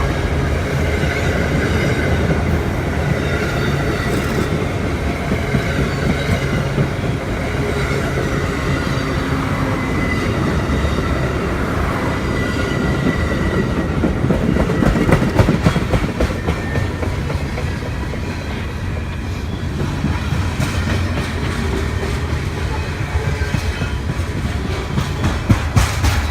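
Railroad train rolling past: a steady rumble of wheels on rail, with a faint high wheel squeal. Repeated clicking of wheels over rail joints comes in clusters, most of all near the end.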